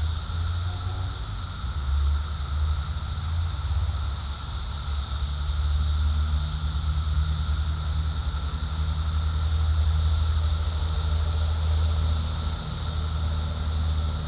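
Dense, steady chorus of Brood X periodical cicadas, an unbroken high shrill drone with a lower whirring tone beneath it, over a steady low rumble.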